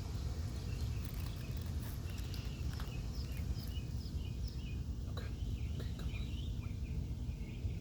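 A steady low rumble, like wind or distant traffic, with a bird chirping in a quick run of short repeated notes through the middle.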